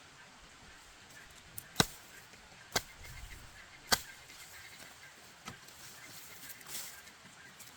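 Three sharp knocks about a second apart, followed by two fainter ones.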